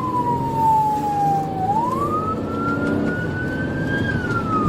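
Police car siren in a slow wail over engine and road rumble. Its pitch falls for about a second and a half, climbs over about two seconds, then starts falling again near the end.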